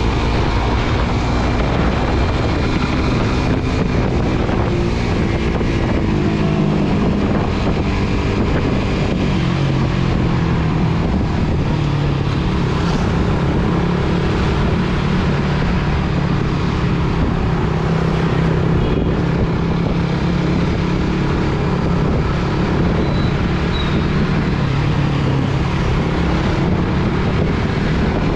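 Suzuki GSX-R150's small single-cylinder engine running while riding, its pitch shifting up and down with throttle and speed, with wind rushing over the microphone.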